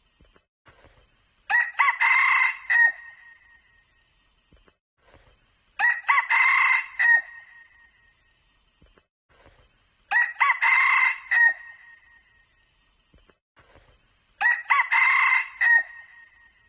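Red junglefowl crowing: four short, ringing crows about four seconds apart, each one alike.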